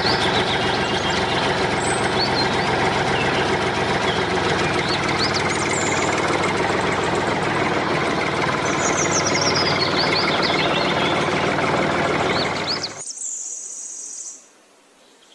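Tractor engine running steadily, with birds chirping over it; the engine sound stops about 13 seconds in and it goes much quieter.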